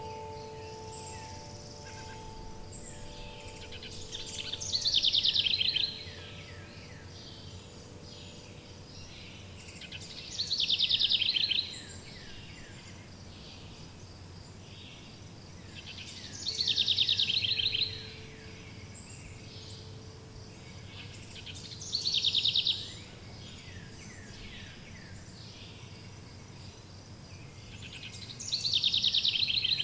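A songbird repeating the same short, fast trill of falling notes about every six seconds, five times, over a steady outdoor background hiss. A wind chime's tones ring out and fade in the first few seconds.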